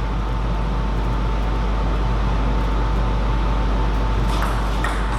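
Steady hum and hiss of a table tennis hall between rallies, with a few light clicks near the end from a table tennis ball.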